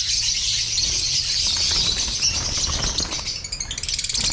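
A large flock of caged lovebirds chattering and squeaking together in a dense, continuous, high-pitched din.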